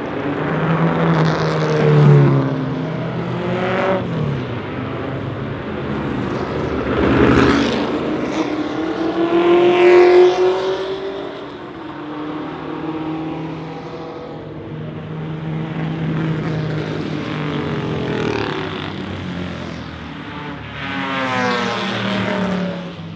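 Historic racing cars passing one after another on a circuit, their engine notes rising and falling as each goes by. The loudest passes come about two, seven, ten and twenty-two seconds in.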